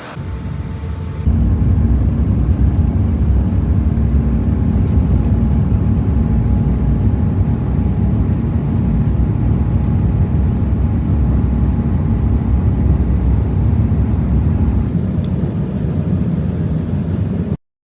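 Loud, steady low rumble of a jet airliner's engines, starting abruptly about a second in and cutting off suddenly near the end.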